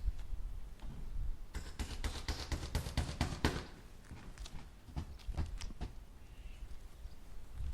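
Hammer striking nails into wood: a quick run of taps, then a few single blows spaced about half a second apart, over a low rumble.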